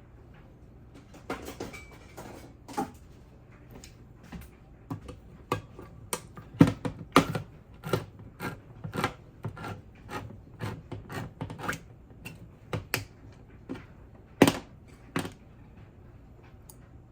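Irregular light clicks and knocks of kitchen utensils and containers being handled, many in quick succession over about fourteen seconds, with the sharpest about six and a half and fourteen and a half seconds in.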